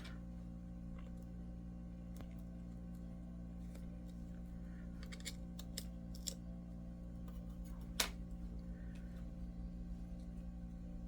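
Scattered small clicks and ticks of a tool working broken iPad 2 touch glass loose, the sharpest about eight seconds in, over a steady low hum.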